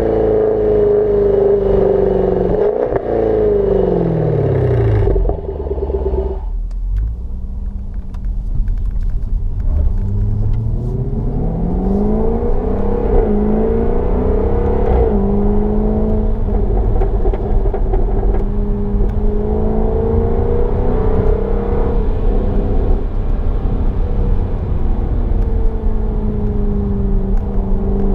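2016 Jaguar F-Type R's supercharged 5.0-litre V8 and dual-mode exhaust under way. The pitch falls as the car slows over the first few seconds and drops away about five or six seconds in. It climbs again from about ten seconds as the car accelerates, then settles into a steady cruise.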